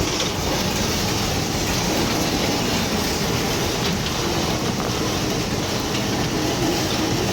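Dodge Challenger R/T's 5.7-litre HEMI V8 idling steadily with a low, even rumble.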